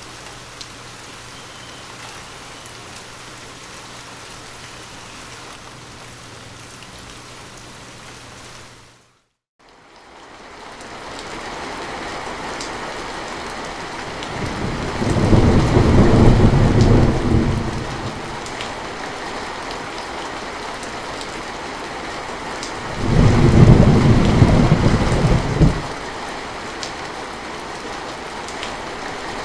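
Steady rainfall with a low steady hum beneath it; about nine seconds in it drops out for a moment, then heavier rain fades in and two long rolls of thunder rumble, one in the middle and one near the end.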